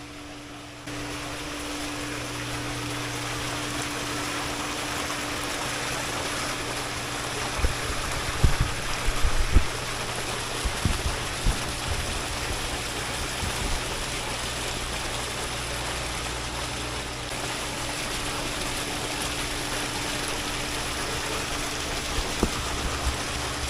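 Steady rushing of running water with a low hum beneath it, and a few dull low thumps around the middle.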